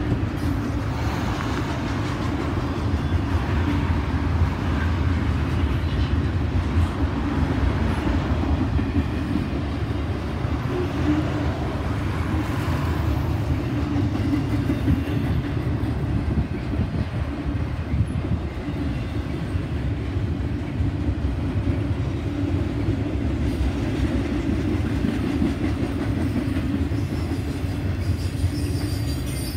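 Double-stack intermodal train's container well cars rolling past: a steady rumble of steel wheels on rail.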